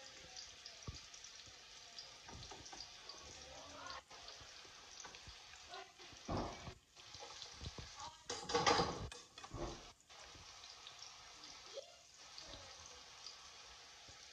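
Chopped onion and garlic sizzling faintly in olive oil in a metal pan on low heat. A metal spatula scrapes and stirs against the pan in a few louder bursts, loudest a little past the middle.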